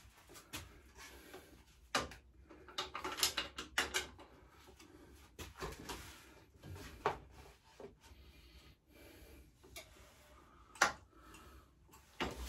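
Hand tools working on a pit bike's front-end yoke: scattered metallic clicks and knocks, with a quick run of clicks about three seconds in, as the yoke bolts are tightened.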